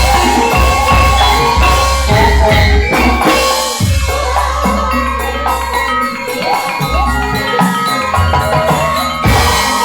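Javanese gamelan music: struck bronze metallophones ringing over drums, with a strong low beat.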